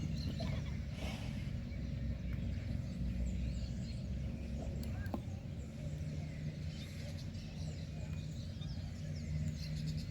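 Rural outdoor ambience: scattered bird chirps over a steady low rumble.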